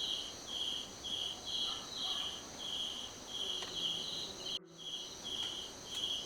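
Rainforest insects chirping in an even rhythm, about two chirps a second, over a steady high insect drone; the sound cuts out for a moment about two-thirds of the way through.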